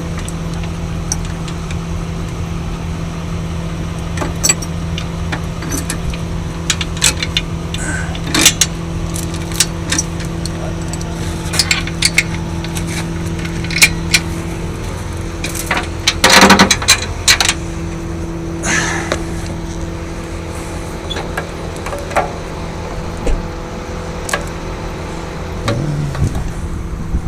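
Tow truck engine idling steadily while metal chains and hooks clank and rattle in short, scattered knocks as the car is secured with safety chains. A longer, louder rattle comes a little past halfway, when the hum briefly drops out.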